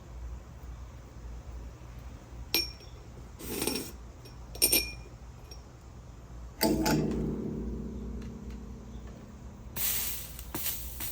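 Tools and glass pieces clinking and knocking on the work surface while a stained-glass piece is being soldered, a few separate clicks, then one knock that rings on for a couple of seconds. A brief hiss follows near the end.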